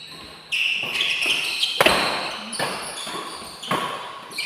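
Badminton rally: rackets striking the shuttlecock in a quick series of hits, the sharpest and loudest about two seconds in, with shoes squeaking on the court floor, echoing in a hall.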